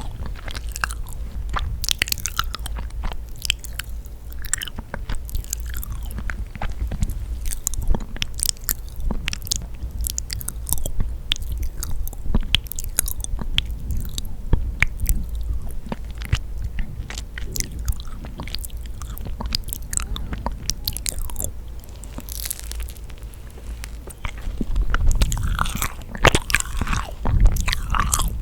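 Close-miked chewing of yakgwa, a sticky honey-soaked Korean fried cookie: a dense run of wet, sticky clicks and smacks from the mouth, busier and louder near the end.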